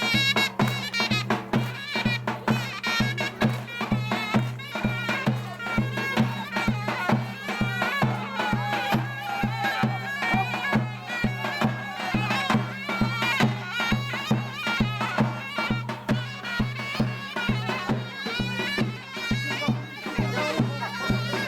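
Turkish folk dance music: a shrill, ornamented reed-pipe melody over a steady, regular drumbeat.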